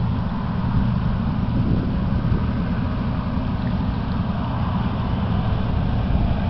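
Steady low rumble of a freighter's engines passing on the river, with some wind buffeting the microphone.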